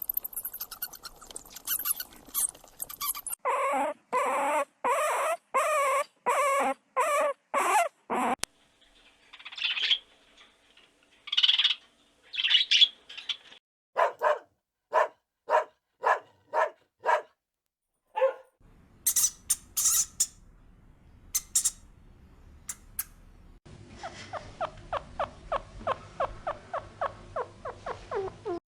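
Dogs barking in a series of short calls, with higher, thinner whining calls between the runs of barks and a quick pulsing sound near the end.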